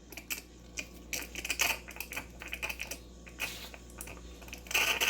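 Irregular light clicks and knocks from a cup and espresso machine parts being handled, with a louder burst of clatter near the end.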